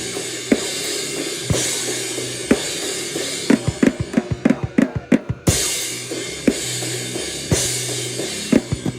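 Noise-rock drums: a hit about once a second under a hissing cymbal wash and a held low bass note, broken about three and a half seconds in by a fast two-second run of hits that stops sharply before the beat resumes.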